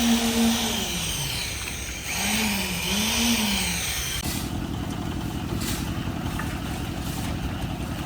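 A small engine revved up and let back down, then revved twice more in quick succession, before settling about four seconds in to a steady, rough, low-pitched running sound.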